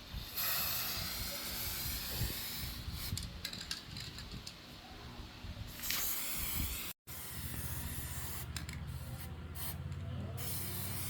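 A steady, loud hiss of spraying air or liquid lasting about six seconds, then after a short break a steady low machine hum.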